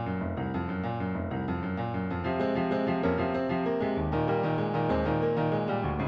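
Piano playing a fast, steadily repeated chord figure, the instrumental backing track of a musical number without the vocal melody; it grows a little fuller and louder about two seconds in.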